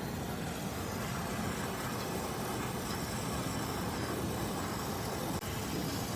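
Steady rushing noise with a low rumble, without clear tones, broken by a brief cut about five seconds in.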